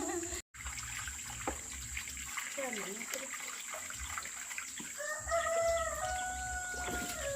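A rooster crowing once, about five seconds in: a drawn-out call of about two seconds that steps down in pitch partway through.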